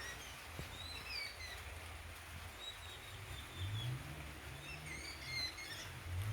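Wild birds chirping, many short quick calls overlapping, over a low steady rumble that swells a little in the second half.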